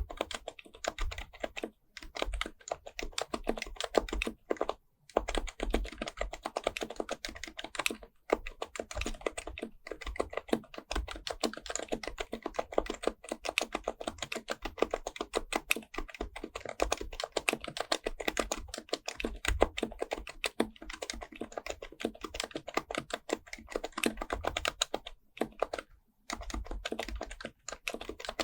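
Typing on an HHKB Pro Type-S, a silenced Topre capacitive keyboard: a fast, continuous run of soft keystrokes with a few brief pauses, and occasional deeper thuds under the clicks.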